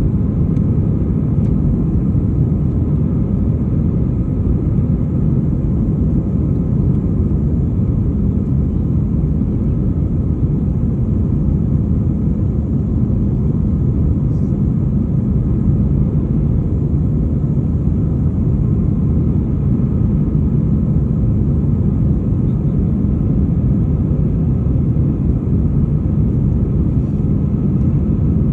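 Airliner jet engines and airflow heard from inside the cabin: a steady, loud low rumble that holds unchanged throughout.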